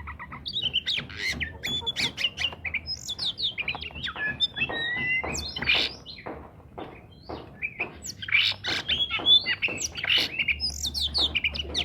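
Oriental magpie-robin (kacer) singing hard and without pause: a rapid, varied song of short whistles, gliding notes and harsh rasping chatter.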